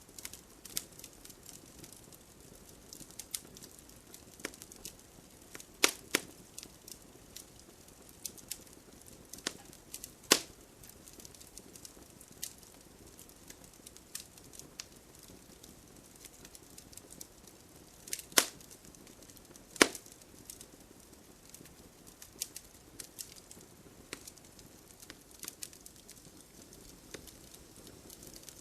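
Campfire crackling: a dense scatter of small ticks over a faint steady hiss, with four much louder pops about six, ten, eighteen and twenty seconds in.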